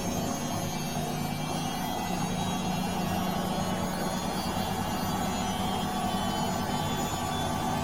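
Bosch washing machine running: a steady motor hum with a couple of held tones, the lowest of which grows stronger about two seconds in.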